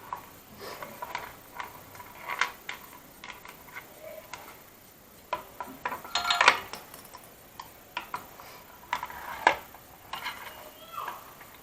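Light metallic clinks, taps and scrapes of a 10 mm T-handle wrench working a nut loose on a motorcycle exhaust mount, irregular, with the loudest clatter about six seconds in.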